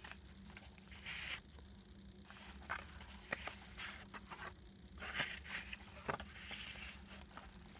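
Soft paper handling: brief rustling swishes and light clicks as the pages and tags of a handmade junk journal are moved and turned, with swishes about a second in and again around five and six and a half seconds in.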